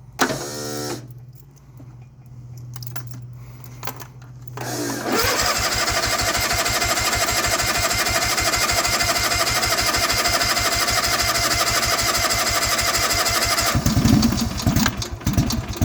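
Yard Pro riding lawn tractor's starter cranking the engine on a cold start after sitting for over a month, an even rapid churning for about eight seconds. Near the end the engine sputters and catches.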